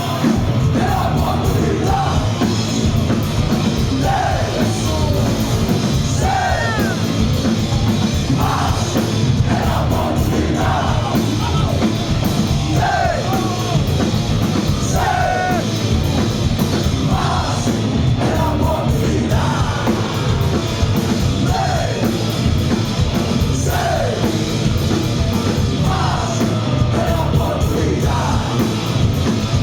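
Live heavy metal band playing loud, with distorted instruments and drums under shouted, sung vocals that slide in pitch line after line.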